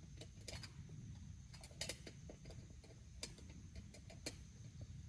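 Wood fire crackling: irregular sharp pops and clicks scattered over a low, steady rumble.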